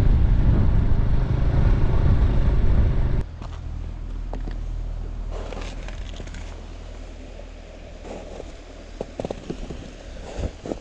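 Honda Super Cub C125's single-cylinder engine running on the move under wind noise. About three seconds in the sound drops abruptly to a much quieter low steady hum, with a few scattered knocks and clicks near the end.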